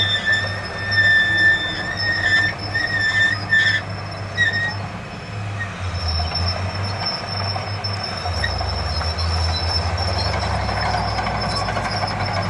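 Diesel engine of heavy earthmoving machinery running, with a high metallic squeal that comes and goes over the first four seconds or so. The engine note deepens and grows steadier about two-thirds of the way through.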